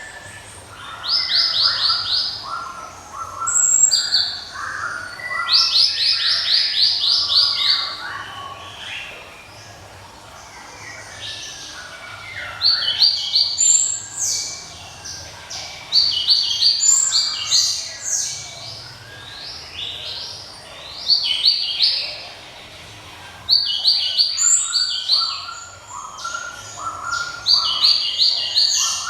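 Glatik (gelatik) songbird singing loud, ringing phrases of fast repeated high notes, each phrase lasting a second or a few seconds with short pauses between.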